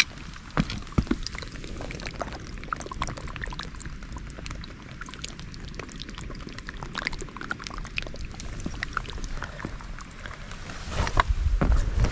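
Water trickling and pouring, with many small drips and splashes. Near the end, louder low thumps and rustling come in.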